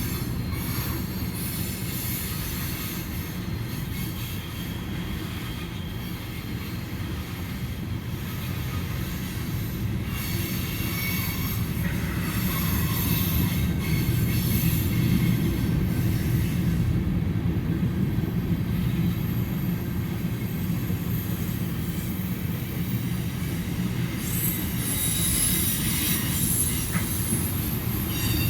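Cars of a CSX mixed freight train rolling past: a steady rumble of wheels on rail, with thin high squealing tones from the wheels coming and going.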